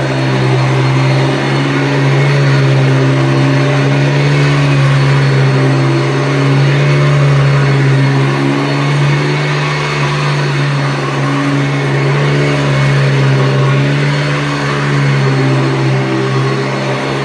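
Hoover Decade 80 upright vacuum cleaner, fitted with an 11-bladed fan, running steadily: a loud motor hum with a strong low tone and its overtones, the pitch wavering slightly.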